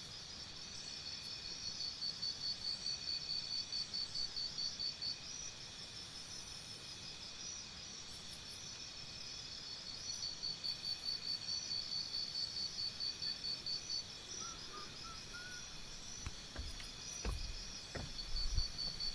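Insects chirping in a steady pulsed trill, several pulses a second, with a few faint bird chirps midway and some low thumps near the end.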